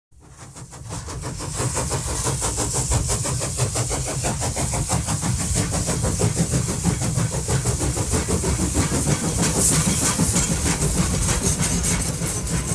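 Steady mechanical running noise with a fast, even clatter over a low rumble and a hiss, fading in from silence over the first two seconds.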